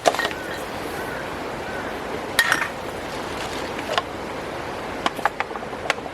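Camping dishes and utensils clinking: several sharp clinks and knocks, one ringing briefly, over a steady hiss of a running stream.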